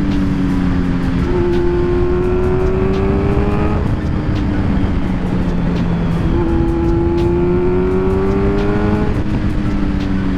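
Kawasaki Z900's 948 cc inline-four engine pulling under throttle while riding: its note climbs steadily for a couple of seconds, drops back, then climbs again near the middle and drops back once more. A steady rush of wind and road noise runs underneath.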